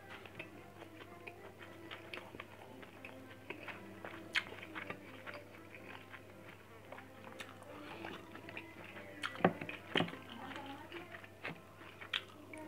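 Close-mic chewing and mouth sounds of a person eating rice and grilled fish by hand, with several sharp clicks, the loudest about halfway and again near the end.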